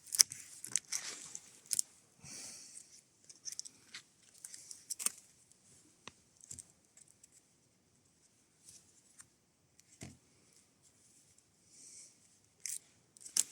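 Cord and fabric handled close up as a prusik knot on a paracord ridgeline is redone. Scattered light rustles and scrapes come with a few sharp clicks, and there are quiet stretches between them.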